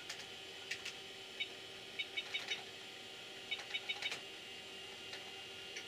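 Keys of a clicky computer keyboard being pressed in short quick bunches, each press a sharp click with a brief high ping, over the steady hum of the running computer.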